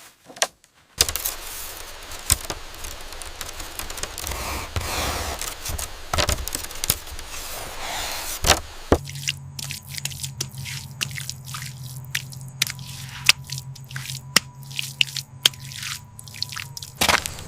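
Scraping, rubbing construction work with scattered clicks. About halfway through it gives way to a steady low hum and a thin high tone under a quick run of sharp clicks and taps.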